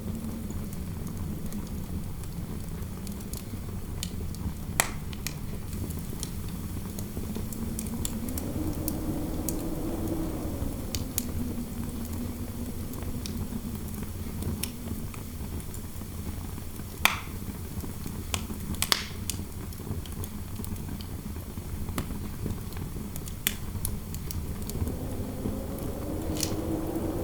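Fireplace fire crackling with occasional sharp pops over a steady low rumble of wind, which swells into a rising howl twice.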